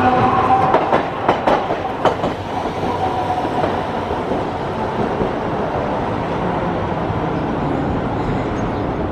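Hiroshima Electric Railway streetcar running on the tracks: a whine that fades early on, then a steady rolling rumble. A few sharp clicks about one to two seconds in, as the wheels cross rail joints.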